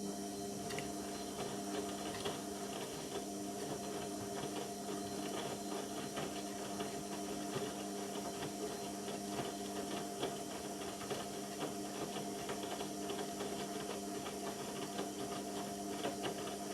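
Indesit washing machine mid-cycle: a steady electrical hum with water splashing and crackling inside, switching on suddenly and cutting off suddenly after about 17 seconds.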